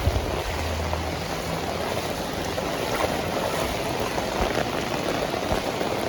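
Heavy rain falling steadily, a dense hiss of rain and running floodwater. A low steady hum is heard for about the first second and a half, then stops.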